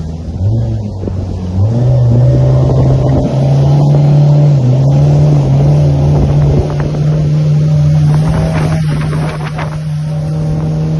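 Motorboat engine picking up speed, its note stepping up twice in the first two seconds, then running steadily at speed.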